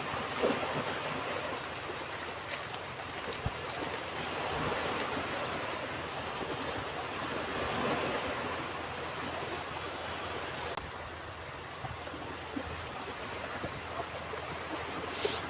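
Ocean surf washing onto a beach: a steady rushing noise that swells and eases as waves break and run up the shore. A short, sharp high hiss sounds near the end.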